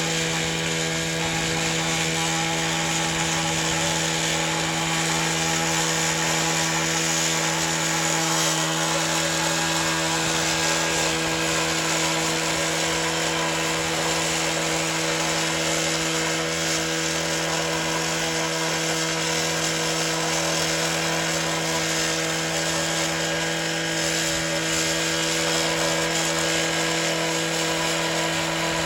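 Two-stroke engine of a gas-powered concrete cut-off saw running steadily at one constant speed, with no rise or fall in pitch.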